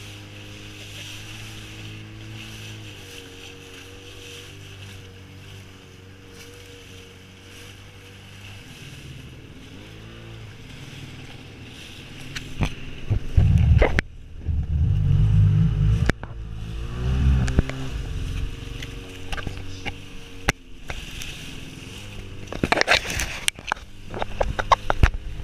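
Jet ski engine running steadily at low speed. About halfway through it gets much louder, with heavy rumbling buffeting and sharp cracks on the microphone, and the engine pitch rises and falls as it speeds up.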